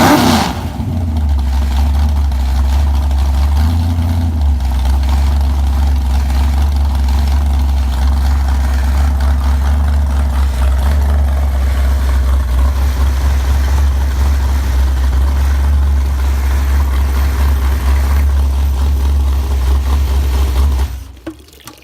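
Rebuilt 1970 Chrysler 440 Six Pack V8 coming down off a brief rev and settling into a steady idle, then shut off near the end.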